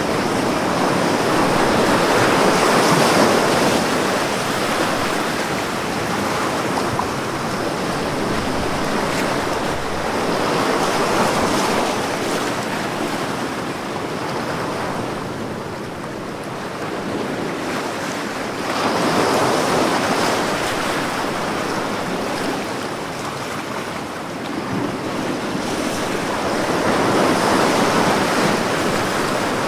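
Ocean waves breaking on a beach, a steady surf wash that swells and ebbs about every eight seconds.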